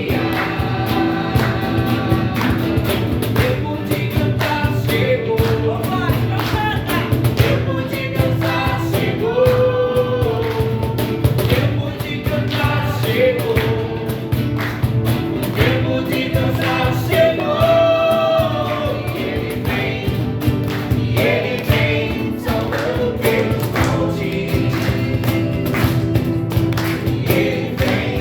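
Christian worship music: a choir singing over a band accompaniment with a steady beat.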